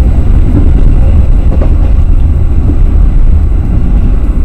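Passenger train running, heard from inside the carriage: a loud, steady, deep rumble of the moving coach.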